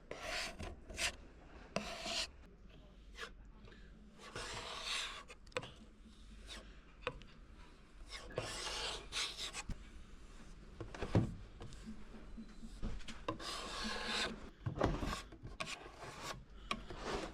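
Scraper blade scraping and spreading wood filler paste over a mahogany surface, in irregular rasping strokes with a sharp tap near the middle.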